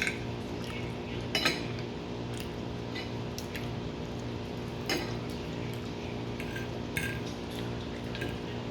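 Cutlery clinking against a plate a few times while eating pasta, over a steady low hum.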